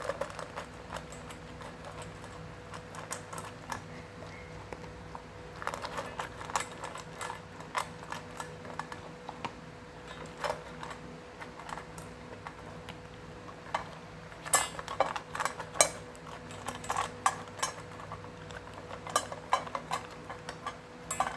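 Golden retriever eating from a bowl: irregular clusters of short crunches and clicks of food and bowl, louder in the second half, over a faint steady hum.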